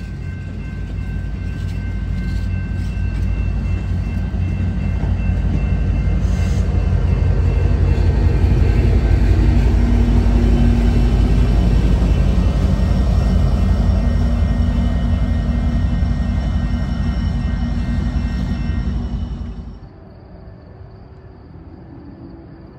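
Bilevel passenger train passing close by: a loud rumble of wheels on rail that builds to a peak midway, with several steady high-pitched tones ringing over it, then drops off sharply near the end.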